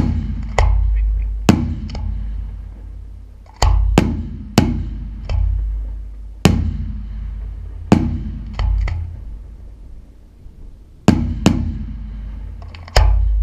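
Aerial firework shells bursting in an uneven series of loud bangs, roughly one every second, sometimes two close together. Each bang is followed by a low rumbling echo that dies away over a second or two.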